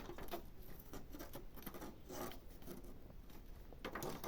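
Faint irregular rustling with scattered small clicks and crackles.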